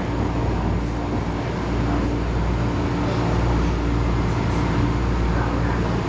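Running noise inside a moving electric passenger train: a steady low rumble of wheels on track with a constant motor hum.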